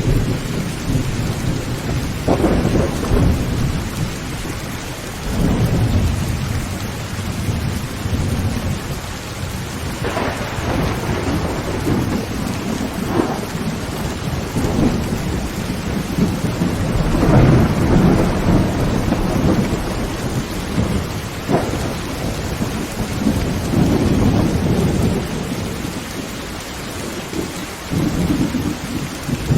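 Heavy rain drumming on a tin tent roof, with thunder rumbling again and again and several sharp cracks through it.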